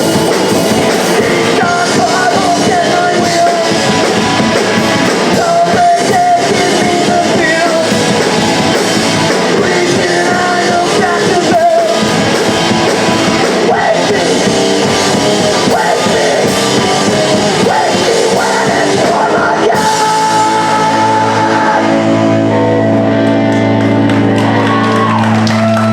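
Live punk rock band playing loudly, with shouted vocals, electric guitars and drums. About twenty seconds in the drumming stops and steady held notes ring on as the song ends.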